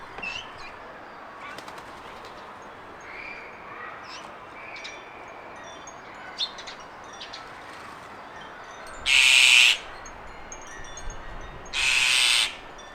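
Two short bursts of a bird's wings flapping, about nine and twelve seconds in, over faint chirping of garden birds.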